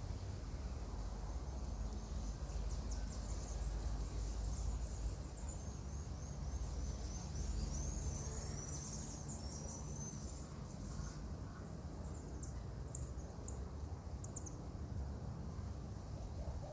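Marmosets giving high-pitched, wavering twittering chirps for several seconds, then a few short separate squeaks, over a steady low rumble.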